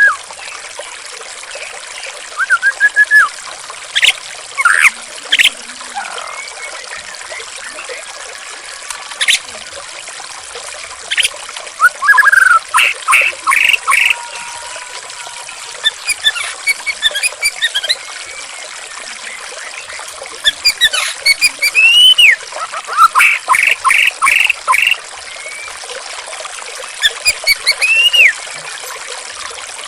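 Steady trickling, running water with a songbird's loud whistled notes over it. The bird gives single arched notes and, twice, a quick run of four or five notes.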